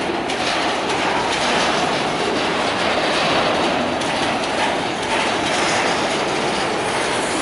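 A freight train of grain hopper wagons rolls past. Its steel wheels clatter steadily on the rails.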